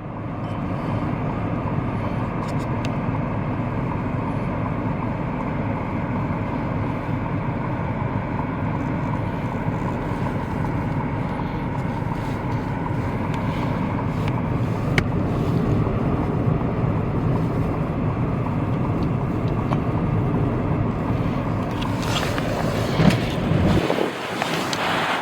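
Steady road and engine noise of a vehicle driving on a snowy highway. About 22 seconds in, a rush of wind noise on the microphone joins and takes over.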